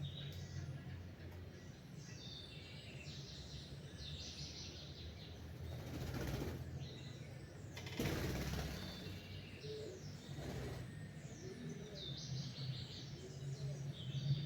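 Several small songbirds chirping and singing in short, repeated phrases over a steady low hum. Two brief rushing noises come about six and eight seconds in.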